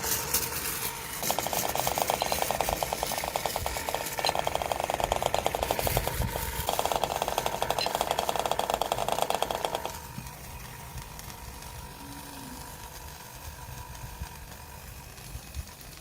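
A fridge compressor converted into an air engine runs with a rapid, even rattle and a steady tone underneath. It stops briefly twice and cuts off about ten seconds in, leaving a faint steady hum.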